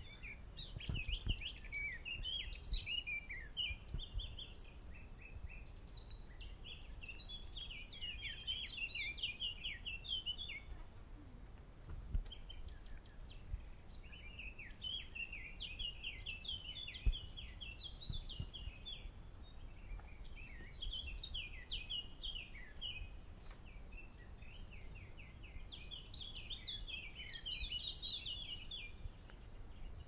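A songbird singing in bouts of fast, scratchy chattering phrases a few seconds long, with short pauses between, over faint outdoor background noise. A few low thumps sound, the sharpest about a second in and near the middle.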